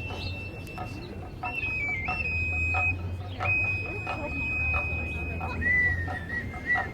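Voladores ritual music: a high flute holding long notes with small steps in pitch, over a small drum beaten at a steady pace of about two beats a second.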